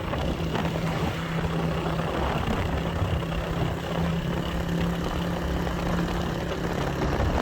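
Motorcycle engine running at a steady pitch while riding, under a continuous rushing noise.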